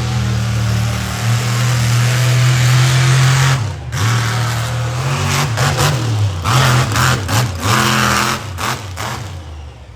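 Monster truck engine held at high revs for about three and a half seconds, briefly cutting out, then revved in quick bursts with changing pitch, falling away near the end.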